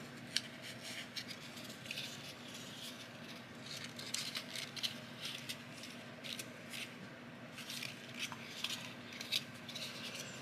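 Folded paper strips being handled and creased: quiet, scattered light crinkles and crisp ticks.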